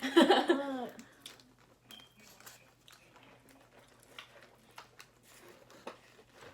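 A brief voice in the first second, then quiet eating sounds: scattered small clicks of chewing and the crinkle of food wrappers.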